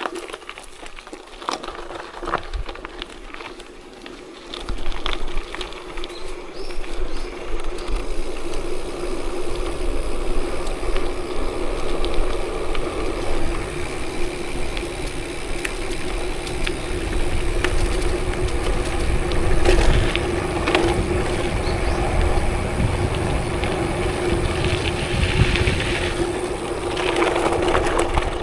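Riding along a gravel forest road: tyres rolling and crunching over gravel with a steady hum and low rumble, getting louder from about five seconds in.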